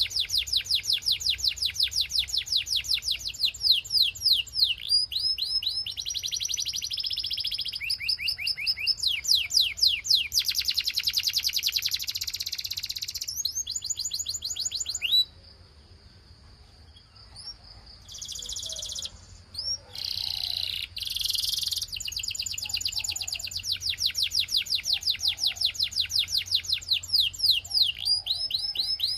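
Belgian canary singing: long fast trills of rapidly repeated high sweeping notes and buzzing rolls, broken about halfway by a few seconds of a thin held note and short phrases before the trills pick up again.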